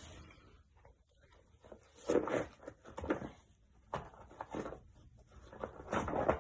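Paper piñata rustling and scraping in a few short bursts as a dog works at it.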